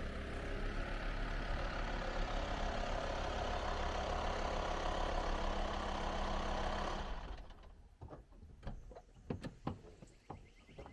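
Vehicle engine running steadily, then stopping about seven seconds in. Scattered light clicks and knocks follow.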